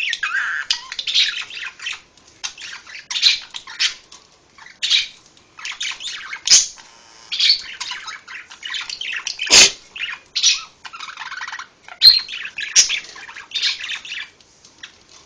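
A pet parrot chattering and squawking in short, scratchy bursts with brief pauses between them, broken by a few sharp clicks, the loudest about two-thirds of the way through.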